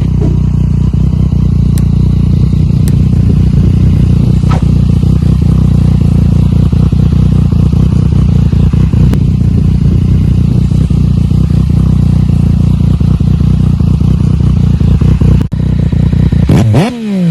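Yamaha MT-09's three-cylinder engine idling steadily. About a second before the end, a sharp throttle blip sends the revs up quickly, and they then fall back.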